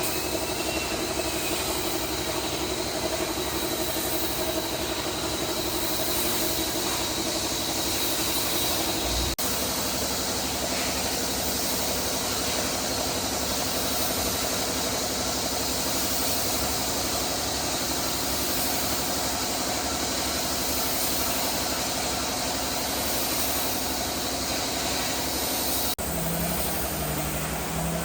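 Steady machine noise, a motor running continuously at an even level, broken by two sudden cuts, about nine seconds in and near the end.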